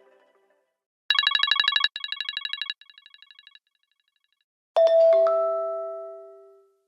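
iPhone XS alert tones: a rapid electronic trill played three times, each run quieter than the last, then after a pause a bright two-note chime that rings out and fades away.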